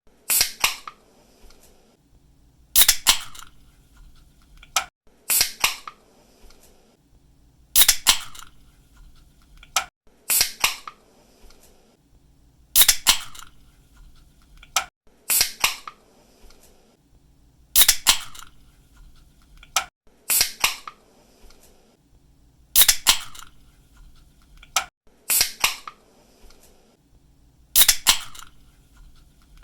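Aluminium drink can's pull tab cracking open, a sharp snap followed by a brief fizzing hiss, repeated about every two and a half seconds.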